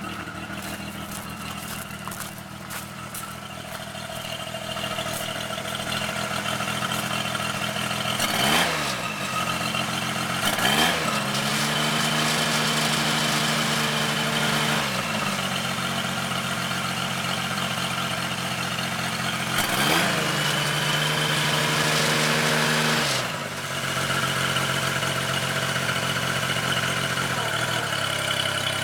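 Pony motor (the small auxiliary engine) on a 1997 GMC bucket truck running at idle, then speeding up and settling back down twice.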